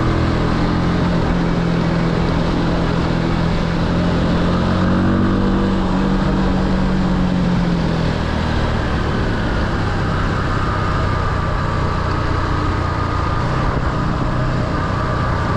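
Motorbike engine running while riding, under steady wind rush on the microphone; the engine note shifts about eight seconds in.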